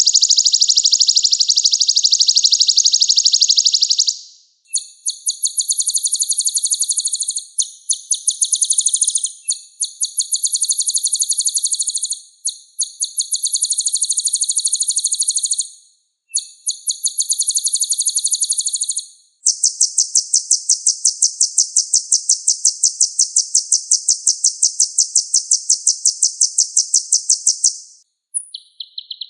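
Kolibri ninja (a sunbird) singing: loud, very rapid high-pitched trills in phrases of a few seconds with short breaks, then one long unbroken trill of about eight seconds near the end.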